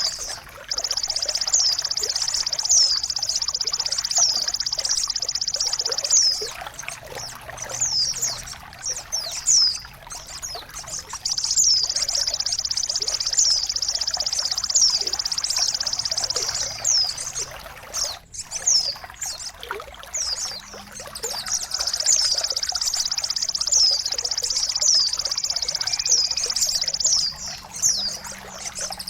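Bird-mastering recording of a high, fast buzzing trill held for several seconds at a time. Between the buzzing stretches come runs of sharp, quickly falling chirps, all over a steady trickle of running water.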